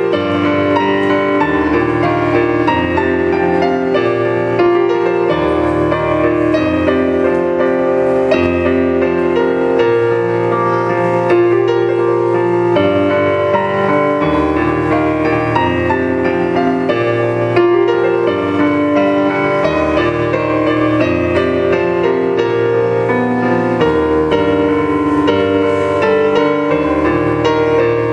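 Solo piano playing at an even loudness, sustained chords over a bass line that changes note every second or two.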